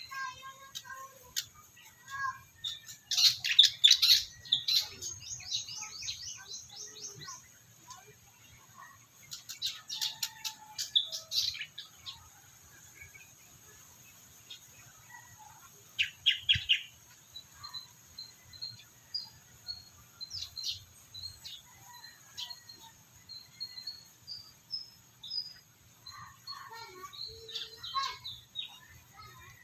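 Birds chirping, with quick trilled runs of short high notes. The loudest runs come about three and about ten seconds in, and scattered single chirps follow.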